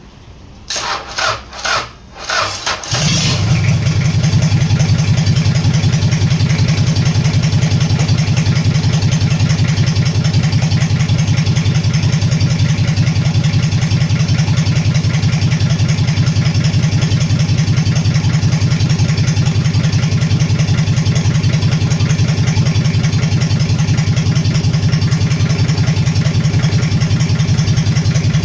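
Freshly overhauled Toyota 3L four-cylinder diesel engine being test-started: a few short bursts of cranking, then it catches about three seconds in and settles into a steady, even idle.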